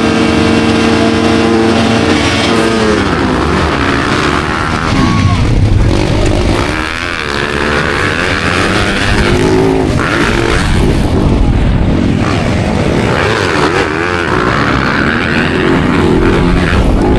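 Several off-road motocross bikes racing together, their engines revving hard and loud. A steady held note fills roughly the first three seconds, then many engine notes rise and fall over one another as the riders work the throttle and shift.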